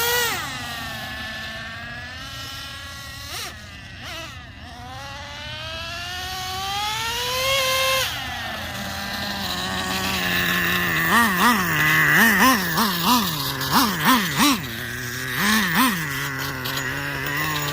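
Traxxas Nitro Revo 3.3's small two-stroke nitro engine: a high-pitched full-throttle note that drops sharply right at the start, then a slow rising run-up that cuts off about eight seconds in. The engine then idles with a quick series of short throttle blips.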